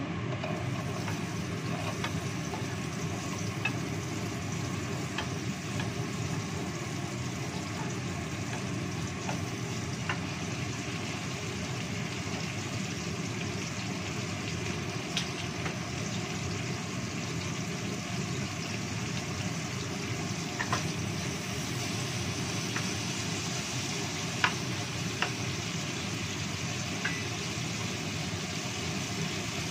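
Sliced red and green chillies sizzling in hot oil in a nonstick wok, stirred with a wooden spatula that clicks against the pan now and then. There is a sharper knock about three-quarters of the way through, over a steady low rush.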